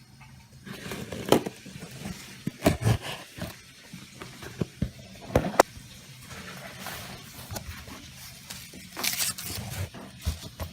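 Shipping box of engine mounts being opened by hand: packaging scraping and crackling, with several sharp clicks and knocks.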